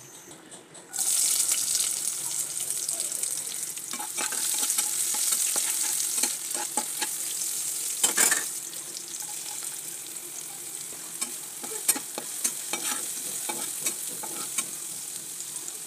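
Sliced onions hit hot oil in a pan and start sizzling suddenly about a second in. The frying hiss carries on while they are stirred, with sharp clicks and scrapes of the utensil against the pan.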